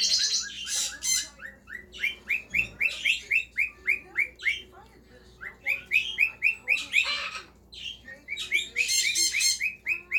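A cockatiel chirping in quick runs of short rising chirps, about five a second, broken three times by harsher, higher squawks. The chirps ease off briefly in the middle.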